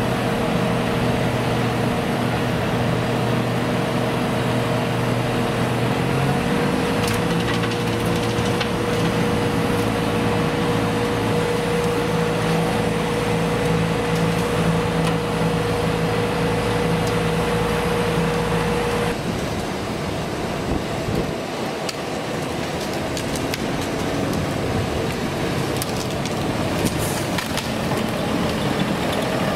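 Eschlböck Biber 92 mobile wood chipper on a Claas Xerion 4000 tractor, running and chipping wood. The steady engine hum rises in pitch a few seconds in, then about two-thirds of the way through the steady tone drops away and the sound turns rougher, with sharp cracks of splintering wood near the end.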